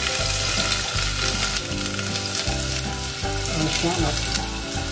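Chopped shallots sizzling steadily in hot oil in a stainless steel pot.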